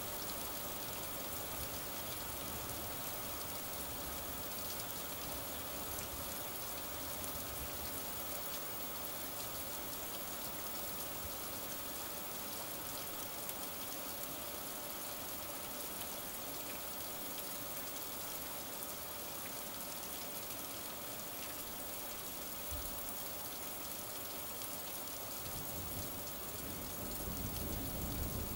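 Steady rain falling during a thunderstorm, an even patter. Near the end a low rumble of thunder starts to build and the sound grows louder.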